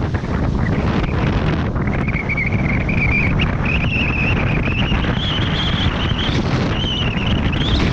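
Heavy wind buffeting the microphone. From about two seconds in, a high wavering whine slowly rises in pitch and holds.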